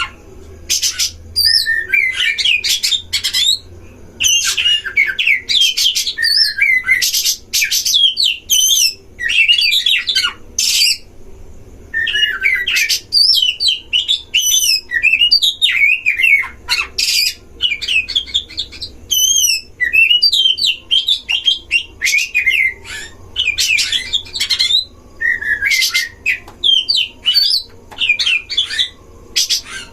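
Oriental magpie-robins singing against each other in a duel: fast, varied phrases of clear whistles mixed with harsh rasping notes, following one another with only brief pauses.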